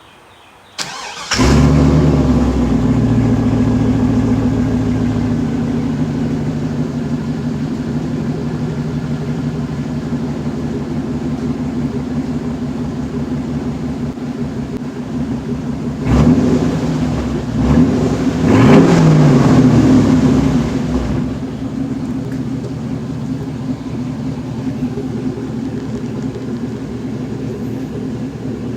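A 1500HD pickup's V8 with an X-pipe and dual Carven mufflers cranks and starts about a second in, then idles with its level slowly easing as the fast idle settles. Over half-way through it is blipped briefly twice, then revved up and let fall back once, returning to a steady idle.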